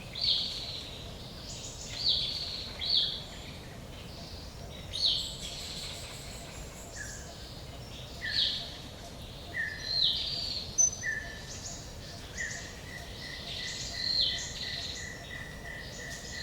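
Forest ambience with several songbirds calling: short, sharply falling chirps repeating every second or so, and from about three quarters of the way in a long, even series of rapid lower notes, over a faint steady background hiss.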